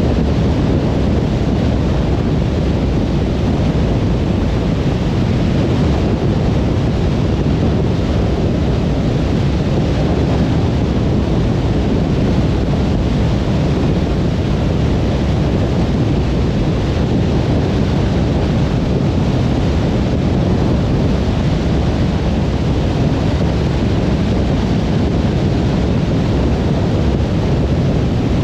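Steady road and tyre noise of a car driving at motorway speed, an even low rumble with no breaks or changes.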